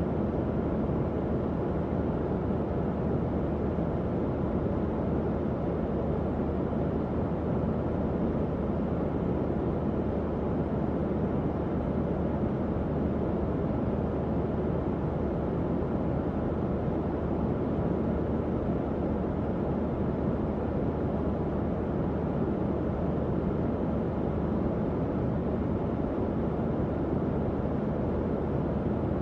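Tower fan running steadily: an even, low whooshing rush of air with a faint steady hum from the motor.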